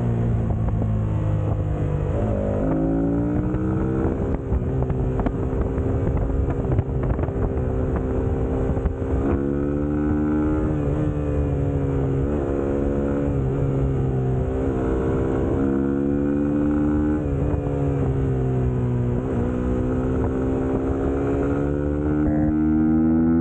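Suzuki GSX-S150's single-cylinder four-stroke engine under way, its pitch climbing and dropping back again and again as the rider works the throttle and gears.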